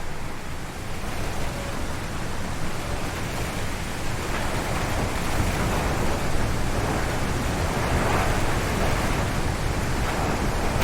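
Strong wind gusting through forest trees: a dense rushing that grows louder and brighter from about four seconds in, with heavy low rumble from the wind buffeting the microphone.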